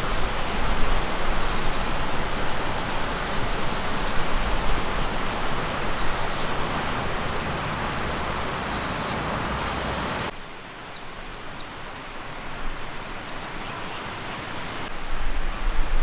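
Small birds calling outdoors: short high trills and chirps every second or two over a steady rushing background noise, which drops off abruptly about ten seconds in.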